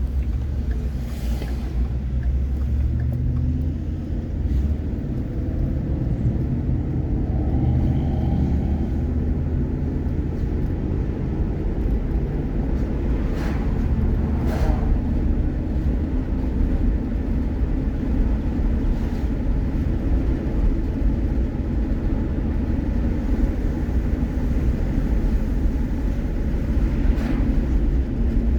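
A vehicle being driven, heard from inside the cab: a steady low engine and road rumble, with the engine note rising and falling a little in the first several seconds as it changes speed, then holding steady.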